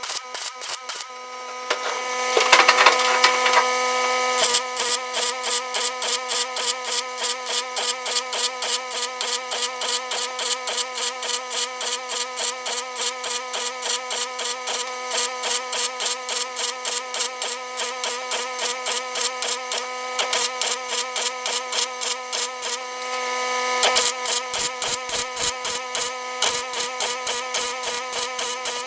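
Welder running a bead on 1/8-inch aluminum sheet: a steady hum with a sharp crackle pulsing about three times a second, and a louder hiss for a couple of seconds near the start and again near the end.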